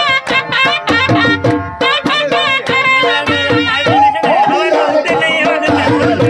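Gujarati folk music: a sarnai (double-reed pipe) plays a fast, ornamented melody over dhol drum beats.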